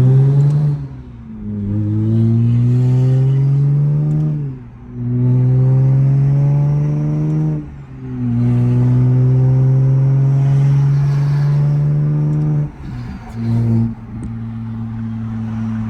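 Big-turbo Toyota Supra Mk5's B58 turbocharged inline-six under hard acceleration, pulling through the gears with three quick upshifts. The engine lets off about three-quarters of the way in and settles to a steadier, quieter run.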